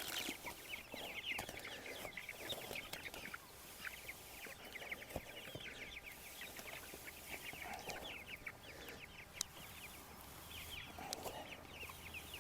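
Young meat-bird (broiler) chicks peeping, many short falling chirps coming in busy flurries, thickest near the start and again late on.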